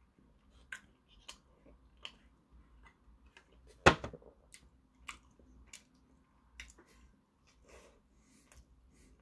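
Close-mouthed chewing of a soft sweet red bean bun, with many small scattered wet clicks. About four seconds in there is one sharp knock as the plastic banana-milk bottle is set down on the table.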